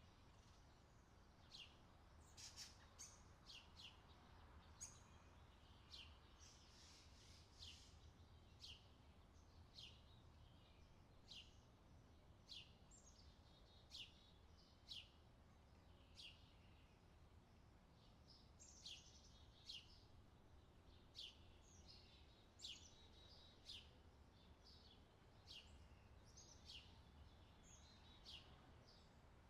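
Faint outdoor summer ambience of songbirds chirping: quick high chirps, each falling in pitch, about one a second and sometimes in small clusters, over a faint steady low hum.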